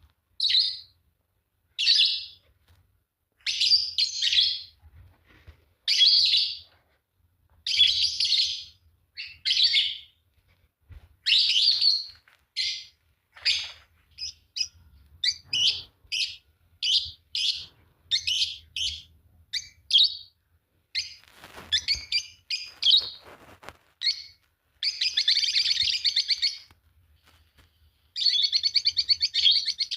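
A pair of Fischer's lovebirds chirping: shrill chirps repeated about once a second, coming closer together later on, then breaking into fast runs of chirping near the end.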